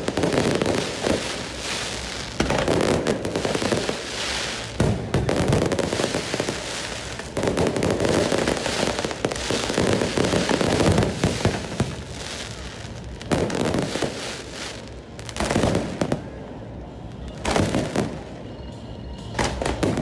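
Fireworks display: many bangs and crackles overlapping in quick succession, thinning out to a few separate bangs over the last few seconds.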